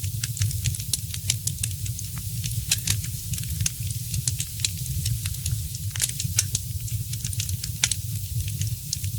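Wood fire crackling in a fireplace: irregular sharp pops and snaps, several a second, with a few louder snaps, over a steady low rumble.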